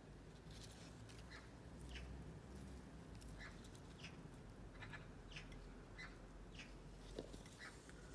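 Faint, short bird chirps, scattered every second or so, over a low steady background rumble.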